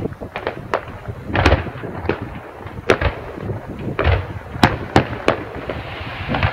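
Fireworks display: a dozen or so sharp bangs from bursting aerial shells in quick, irregular succession, over a continuous crackling rumble.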